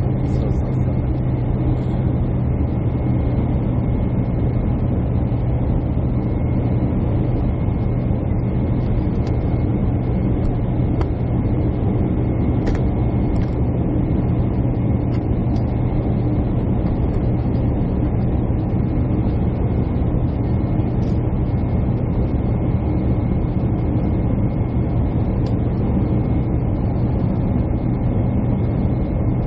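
Jet airliner cabin noise from a window seat: a steady engine drone with a constant low hum over even rushing air noise.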